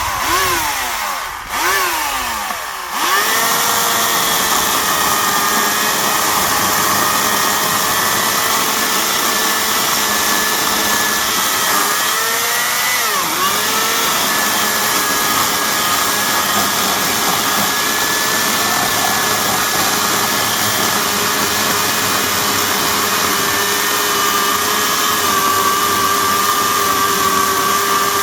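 Hawksmoor 2200W electric chainsaw motor: two short trigger pulls that wind down in pitch, then a long steady high run with a brief dip in pitch about halfway through, winding down at the end.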